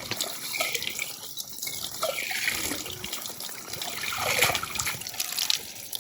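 Water running and splashing unevenly.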